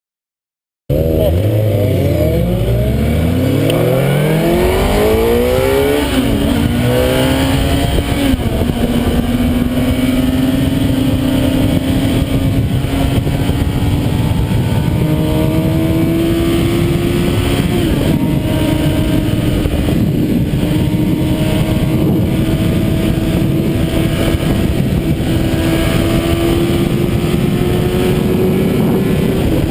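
Tuned, naturally aspirated Honda Civic Si engine pulling hard through several gears, its pitch climbing and dropping back at each shift. It then holds high revs at speed, the note rising slowly, under a loud rush of wind and road noise.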